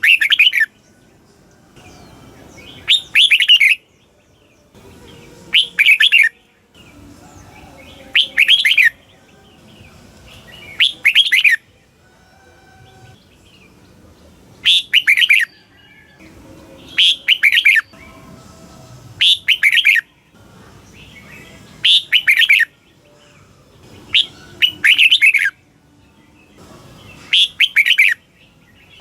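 Red-whiskered bulbul singing: about a dozen loud, short song phrases, each two or three quick whistled notes, repeated every two to three seconds.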